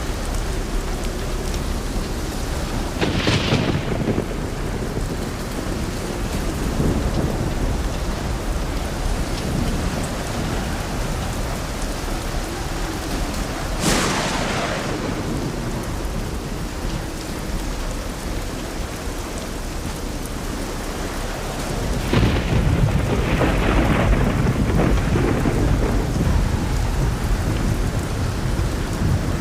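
Steady rain with thunder: two sharp cracks, one near the start and one about halfway, and a longer low rumble that swells in the last third.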